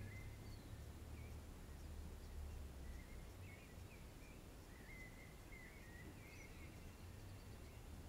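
Faint outdoor ambience: scattered short bird chirps over a low, steady rumble of wind.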